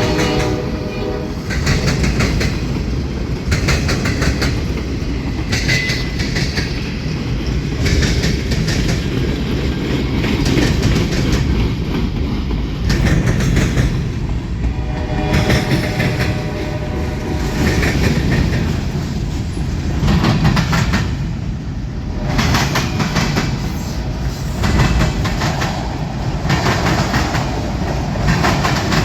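Freight train rolling past, its wheels clicking steadily over the rail joints under a constant low rumble; a locomotive horn blast cuts off about a second and a half in.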